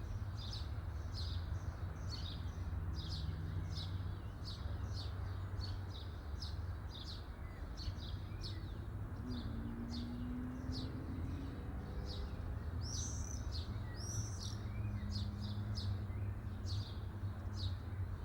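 A bird chirping over and over, short high chirps about one and a half times a second, with a few fuller calls in the middle, over a steady low hum.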